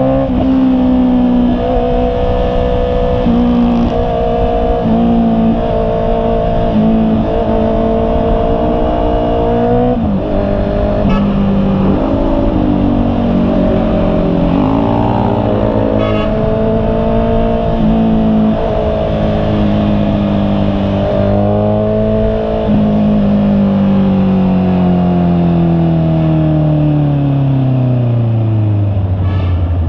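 Honda CB650R's inline-four engine running under way, its pitch shifting up and down with the throttle, then falling in one long slide over the last seven seconds as the bike slows, and picking up again at the very end.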